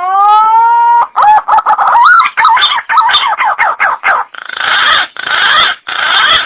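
Green pigeon (punai) calling: a rising whistled note, then a quick run of wavering, warbling notes, ending in three harsher, rougher bursts.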